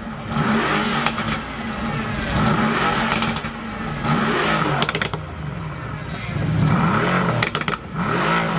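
Mercedes-AMG GT R's 4.0-litre twin-turbo V8 being revved repeatedly while the car stands still, the engine note climbing and falling again and again. Several sharp pops from the exhaust come between the revs.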